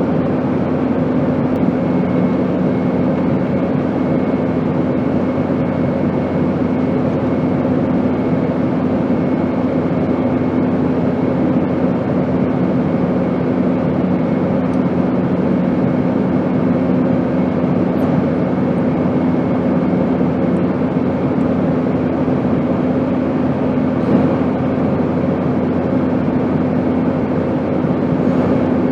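Steady drone of a passenger airplane in flight: an even rushing noise with a low, constant hum beneath it.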